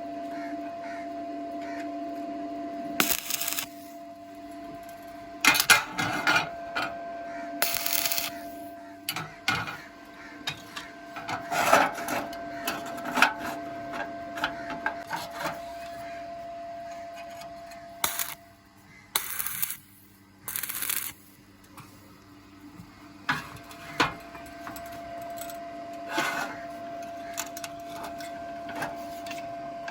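Short bursts of welding on thin steel square tube, each lasting about a second, over a steady machine hum. Clicks and taps of metal fall between the bursts.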